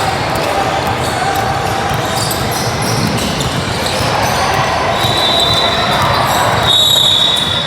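Gym sounds during a youth basketball game: basketballs bouncing on the court with many short knocks, and voices in the hall. A thin, high, steady tone comes in about five seconds in and gets louder near the end.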